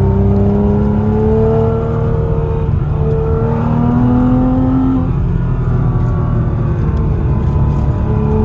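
Porsche flat-six engine accelerating hard, its pitch rising and dropping at upshifts about three and five seconds in, then pulling on more steadily.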